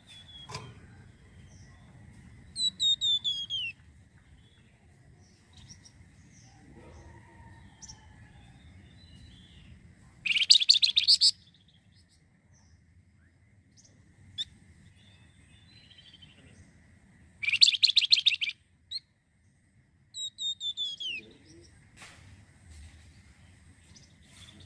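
Flamboyan songbird singing in separate phrases: quick runs of falling whistled notes, and twice a loud, fast, rattling trill. A faint steady high tone runs underneath.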